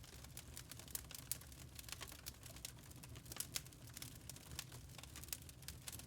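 Wood fire crackling faintly: irregular small snaps and pops from burning logs, a few sharper ones among them, over a low steady rumble.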